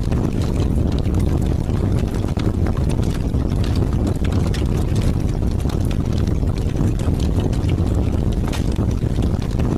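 Heavy rain in strong, howling wind: a steady low rumble of wind with scattered sharp taps of raindrops over it.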